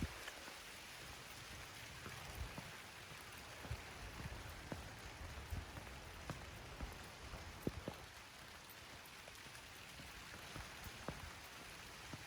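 Rain falling: a steady faint hiss with scattered single drops ticking on surfaces.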